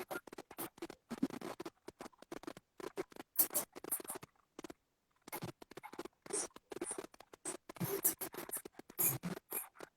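Irregular scratching and rustling with short taps and clicks, stopping and starting in bursts, with a brief gap about five seconds in.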